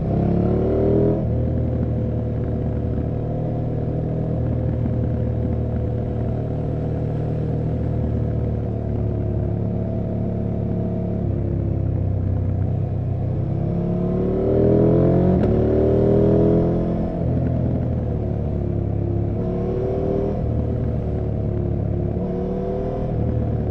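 KTM 790 Adventure R's parallel-twin engine running under way, mostly at steady revs. Past the middle it rises and falls in pitch a few times as the throttle is opened and closed, and it is loudest there.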